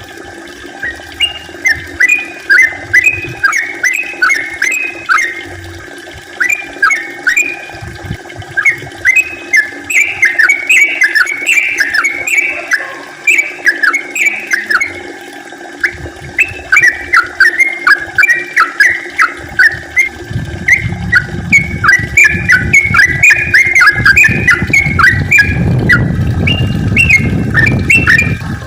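Sooty-headed bulbul (trucukan) singing busily, in quick runs of short bubbly whistled notes repeated over and over. In the last several seconds a low rushing noise builds up underneath.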